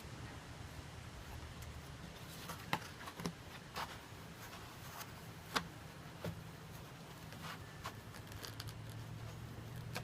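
Light handling of the model's packaging: a scattered series of soft clicks and rustles, over a faint steady low hum.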